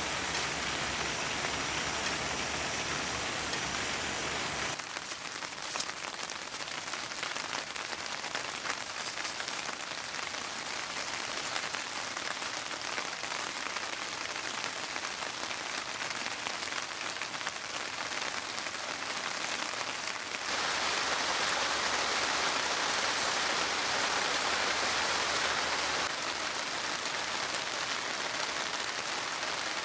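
Steady rain falling, with a heavier, louder downpour for several seconds about two-thirds of the way through.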